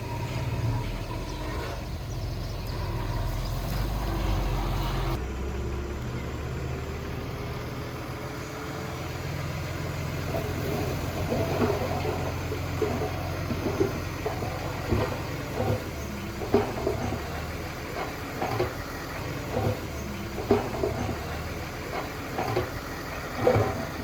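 Diesel engine of heavy earthmoving equipment running with a steady low rumble. From about ten seconds in, scattered short knocks and clanks sound over it.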